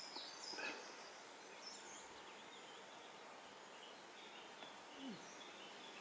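Quiet outdoor background with a few faint, short, high bird chirps.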